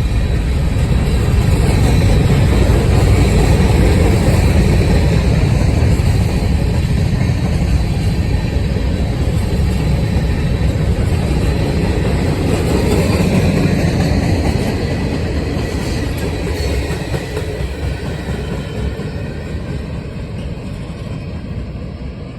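Mixed freight train's cars rolling past on steel wheels, a loud steady rumble that gradually fades over the last several seconds.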